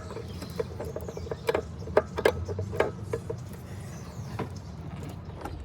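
A wrench working against a seized, rusted-on fastener on the truck's EGR valve, giving irregular short metal clicks and knocks, about one or two a second, over a steady low hum.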